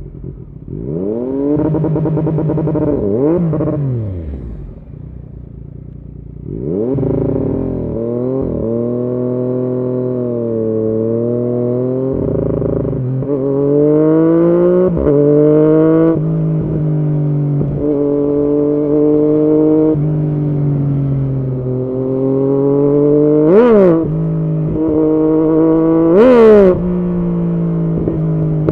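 2016 Yamaha MT-09's 847 cc inline-three engine running through an aftermarket Arrow exhaust. Its note rises and falls repeatedly as the revs climb and drop, with two sharp quick throttle blips near the end.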